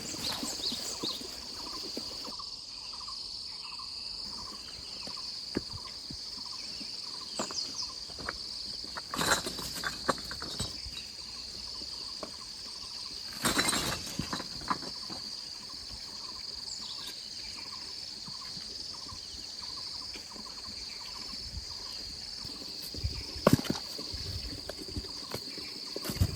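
Steady, high insect chorus of crickets or cicadas, slightly pulsing, with a few short knocks and clatters from hand work, the loudest about a third of the way in, about halfway and near the end.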